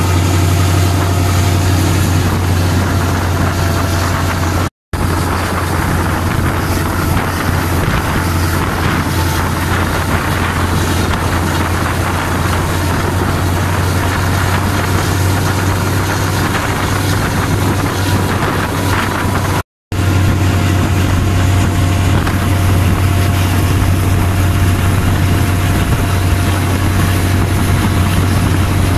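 Diesel passenger train running at speed, heard from the open doorway: a steady deep engine drone under a constant rush of wind and track noise. The sound cuts out twice, briefly.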